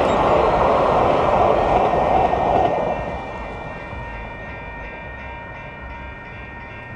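Train passing, a loud rumbling noise that drops away about three seconds in, leaving several steady high ringing tones.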